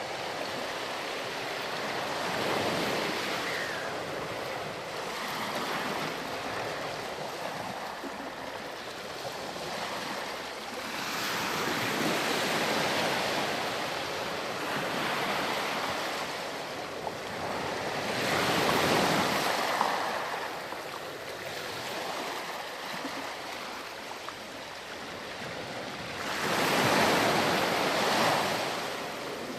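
Ocean waves breaking and washing ashore, with the surf swelling and drawing back about four times, every seven to eight seconds.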